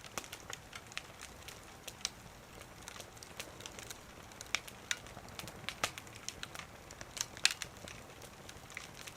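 Firewood crackling as it burns in a small wood stove, with irregular sharp pops, the loudest about seven seconds in.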